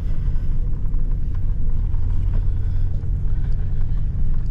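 Pickup truck engine running, a steady low rumble.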